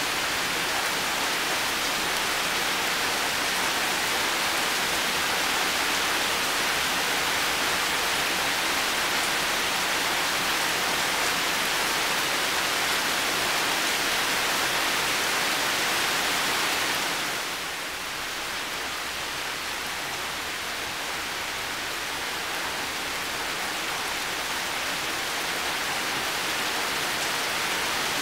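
Heavy rain falling, a steady dense hiss with no separate drops standing out. About two-thirds of the way through it eases a little, then slowly builds back.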